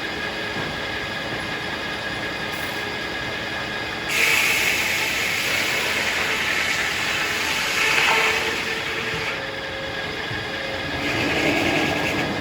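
Circular sawmill running steadily, then the blade biting into a hackberry log about four seconds in: the sawing is louder and higher for about five seconds, and a second, shorter cut follows near the end.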